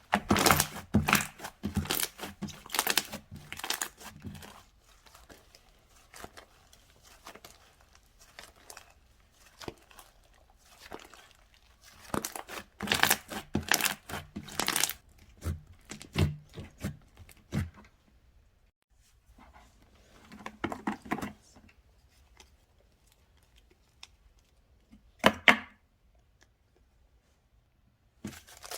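Slime kit being handled, making crinkling, crackling sounds in several spells with quiet gaps between, and one short sharp crackle near the end.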